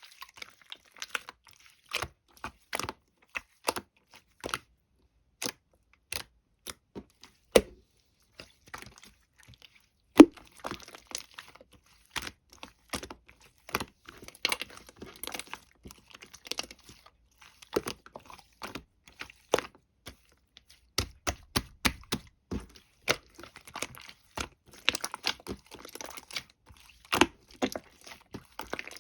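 Slime being squeezed, stretched and folded by hand, giving irregular sticky clicks and crackling pops.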